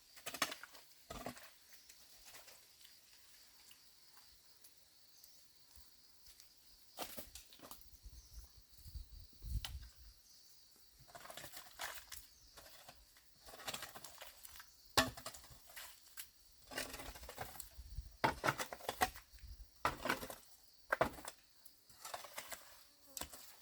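Irregular rustling, knocks and clatter of things being handled, with short sharp clicks coming more often in the second half.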